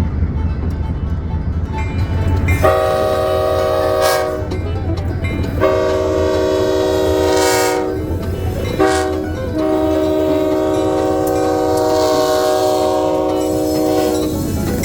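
Diesel locomotive's multi-chime air horn sounding three blasts, two shorter ones and then a long one of about six seconds, over the low rumble of the locomotive's diesel engine.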